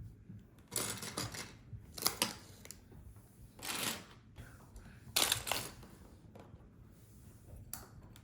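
Loose plastic LEGO bricks rattling and clicking as someone rummages through them to find a piece, in several short bursts.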